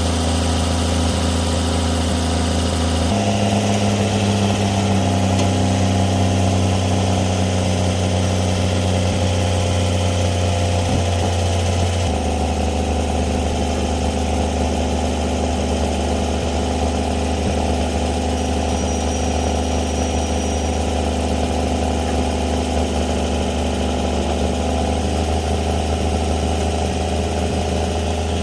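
Winch truck's engine running steadily at idle. Its speed steps up about three seconds in, drops back around twelve seconds, and shifts slightly again near the end.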